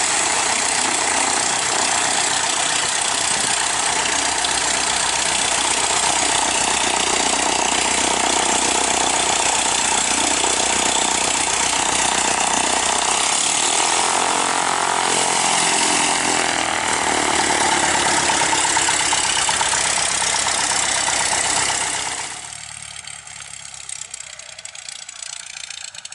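Van's RV-10 light aircraft's piston engine and propeller running loud and steady. The sound shifts in character midway and drops off sharply a little over 20 seconds in.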